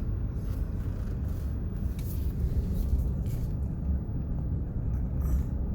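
A car driving slowly, its engine and tyres making a steady low rumble.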